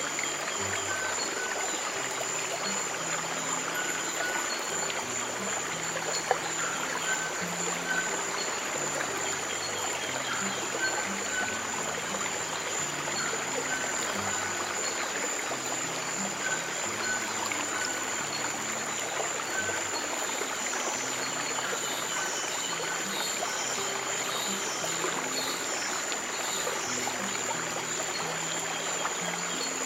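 Stream water flowing and trickling steadily, over soft, slow, low piano notes, with a steady thin high tone throughout.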